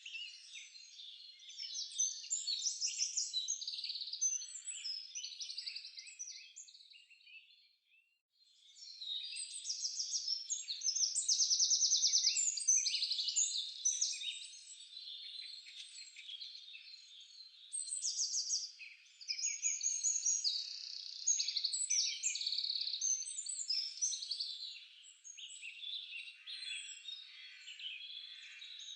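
Several songbirds singing and calling over one another in a dense forest chorus of rapid trills and short chirps. The chorus falls silent for a moment about eight seconds in, then picks up again.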